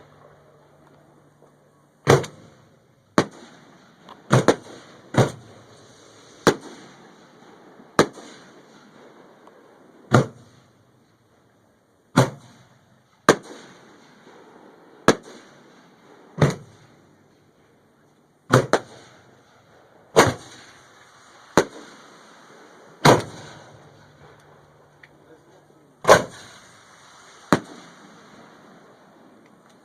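Fireworks going off: about eighteen sharp bangs at irregular intervals of one to three seconds, each trailing off in a short echo.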